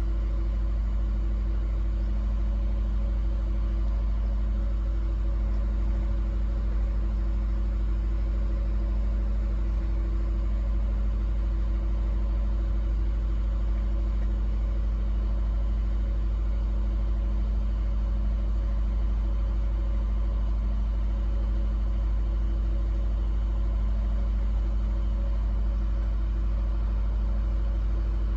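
Inland tanker ship's diesel engine running steadily: a constant low hum with a few steady tones over it, unchanging throughout.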